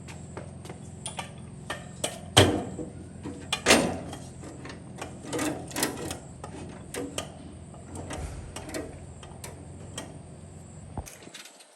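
Electric motor of a mini multi-function milling machine running with a steady hum, with scattered sharp clicks and knocks over it, the loudest about two seconds in. The motor is switched off and stops suddenly near the end.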